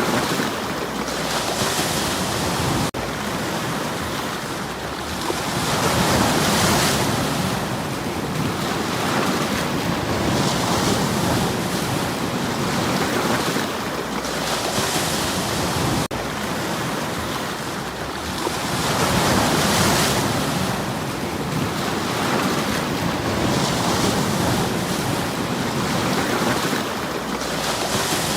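Sea waves breaking and washing over stones on a shore. The hiss swells and falls in slow surges about every four seconds, with the biggest about six and nineteen seconds in.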